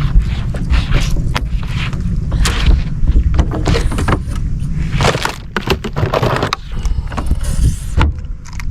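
Wind rumbling on the microphone, with an irregular string of knocks, clicks and rustles throughout, the loudest cluster about five to six seconds in.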